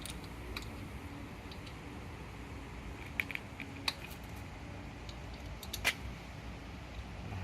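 Scattered light clicks and taps of small parts and tools being handled while working on a motorcycle, with a sharper click about six seconds in, over a low steady background hum.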